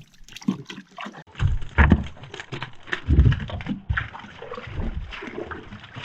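Water sloshing and splashing in irregular bursts, with a few heavy low thumps, as a landed snakehead is handled and struggles beside a kayak.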